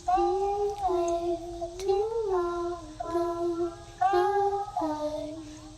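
A child singing a slow melody alone, with no accompaniment, holding each note for about half a second to a second.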